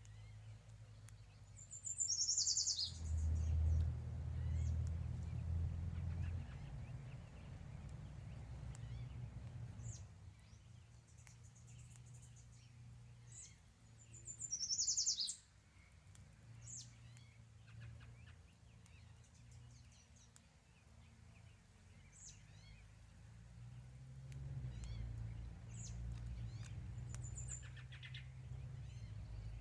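A songbird singing: two quick trilled phrases that fall in pitch, about twelve seconds apart, with scattered short high chirps between, over a low rumble that comes and goes.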